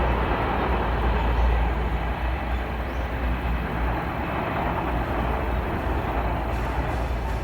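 Freight train container wagons rolling past on the rails: a steady rumble of wheels on track.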